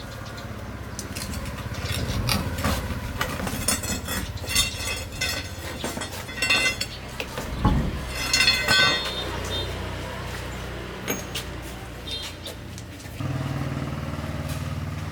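Metal clinking and ringing: a run of sharp metallic knocks and rattles with a heavier thump in the middle, as of tools and steel parts worked against each other. A steady low hum runs underneath and grows louder near the end.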